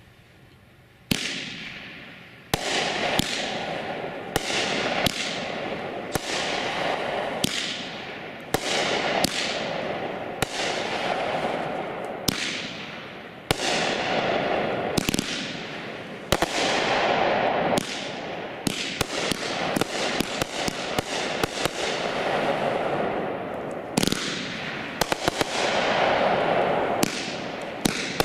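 Shogun consumer fireworks cake firing shot after shot. Each shot is a sharp report followed by a fading hiss, one every second or two, starting about a second in, with a quick run of reports near the end.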